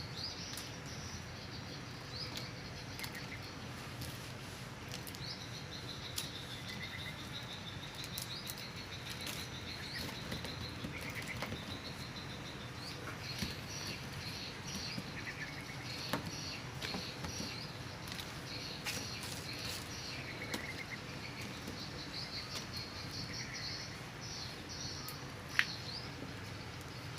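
Small birds chirping and twittering continuously in high trilling calls, with a few sharp clicks and a low steady background hum.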